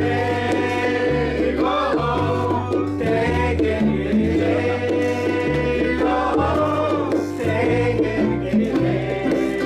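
Live band playing an upbeat song, a bass line stepping from note to note under steady chords, with a voice singing a few short phrases.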